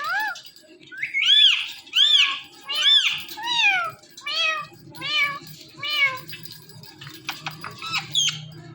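Indian ringneck parrot imitating a cat's meow: a run of about eight rising-and-falling meows in quick succession, then a few short, sharp, high chirps near the end.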